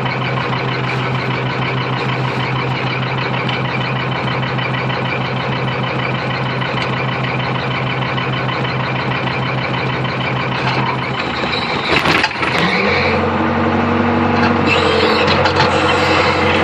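Hitachi UH025 excavator's diesel engine running steadily. About twelve seconds in there is a short clatter, and the engine settles to a lower, slightly louder note.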